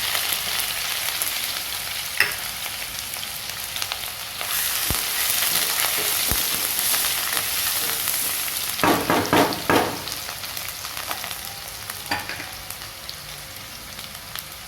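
Chopped onion frying in hot oil with garlic and ginger, sizzling steadily, with a spatula stirring and scraping in the pan. The sizzle grows louder about four and a half seconds in, and a quick run of scrapes comes about nine seconds in.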